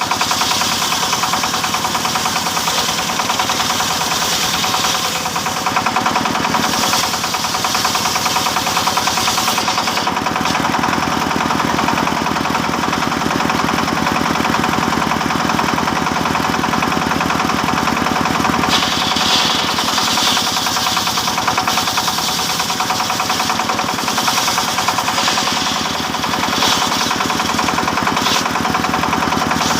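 Engine-driven wood saw running steadily while sawing teak, with a steady whine over the engine's rapid chugging and a hiss that swells and fades at times as the cut goes on.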